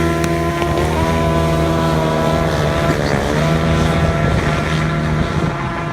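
Small off-road engine running hard, its revs dipping and climbing back twice, about a second in and about three seconds in.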